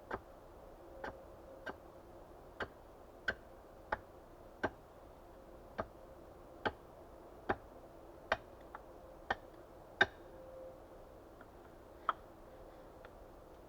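A run of light, sharp knocks repeating about once every three quarters of a second, pausing for about two seconds near the ten-second mark, then resuming.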